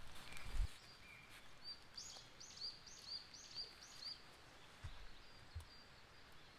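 A small bird calling: a run of about six short high notes, roughly two a second, over faint outdoor background, with a few soft low thumps.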